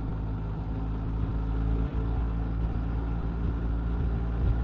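Motorcycle engine running steadily at cruising speed on the highway, with a continuous rush of wind and road noise.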